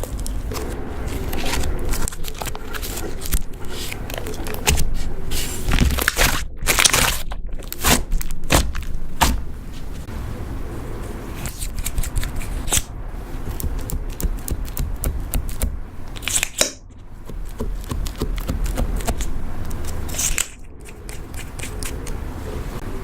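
Butter slime being kneaded, pressed and stretched by hand, giving a run of irregular sticky clicks, pops and crackles.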